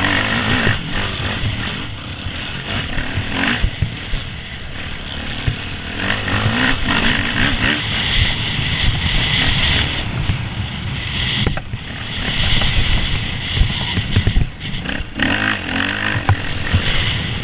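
Hercules enduro motorcycle's engine running hard and revving, its pitch rising and falling while it is ridden.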